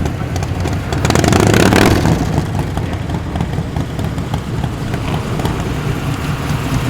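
Car engine rumbling as it drives past, swelling louder between about one and two seconds in.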